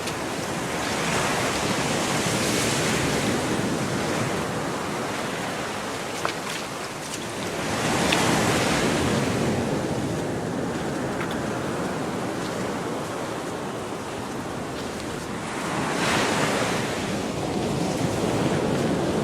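Gulf of Mexico surf: small waves breaking and washing up the beach, the wash swelling about every eight seconds, with some wind on the microphone.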